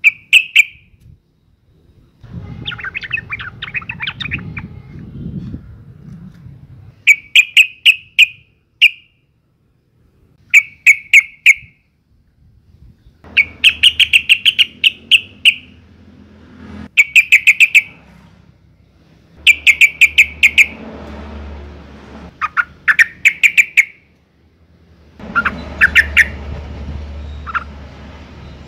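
Female yellow-vented bulbul (trucukan) calling: short, loud bursts of rapid bubbly notes, each about a second long, repeated every two to three seconds. This is the call used as a lure to get other trucukan to sing.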